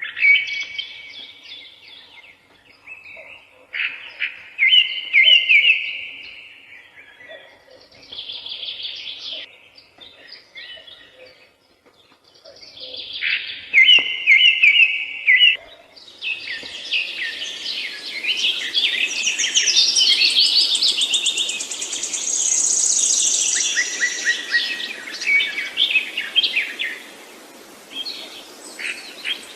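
Songbirds singing and chirping in short, repeated phrases separated by brief pauses. About halfway through, more birds join in overlapping song over a faint background hiss.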